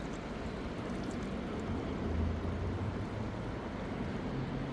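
A low, steady engine drone over an even haze of outdoor noise, swelling slightly about two seconds in.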